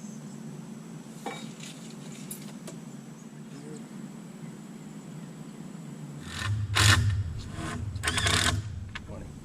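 Power drill driving a screw into wood framing in two runs of a few seconds each near the end, after a few light knocks.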